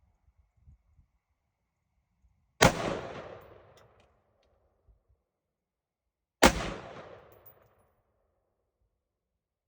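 Two rifle shots about four seconds apart, each followed by an echo that dies away over about a second: shots fired while sighting in a scope.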